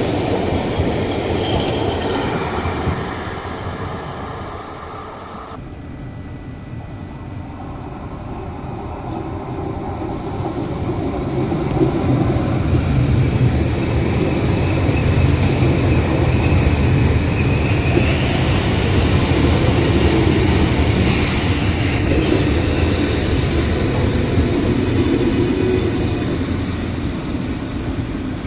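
Electric train running on rails, a steady rumble of wheels and motors that fades down a few seconds in and then builds up louder again.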